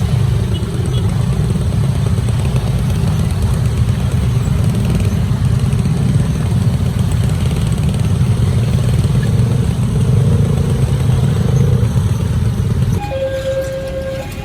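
Steady, heavy rumble of road vehicles with motorcycles among them. Near the end the rumble drops and a two-tone siren starts, switching between a high and a low note about once a second.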